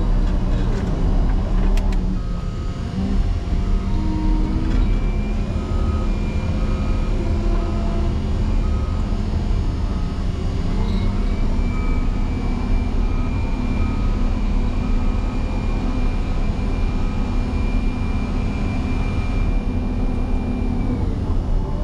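Motor grader's diesel engine running hard while plowing snow, its pitch rising and falling several times. An even beep, about once a second, sounds through most of it.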